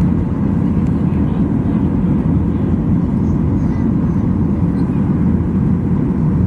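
Airliner cabin noise: a loud, steady low rumble of the engines and the air rushing past, with no change in level.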